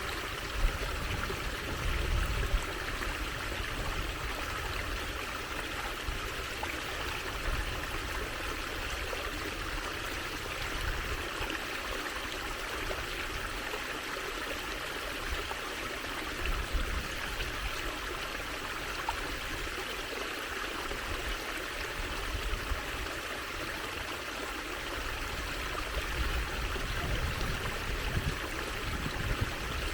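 Water trickling and flowing steadily over stones in a small stream, an even splashing rush with no pauses.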